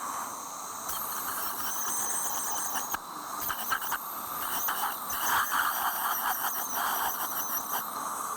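Dentist's drill whining at a high pitch that wavers, with a few short clicks of dental instruments in the middle.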